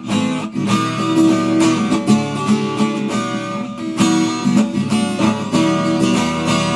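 Instrumental break of a song between sung lines: strummed acoustic guitar over a full band accompaniment, playing steadily.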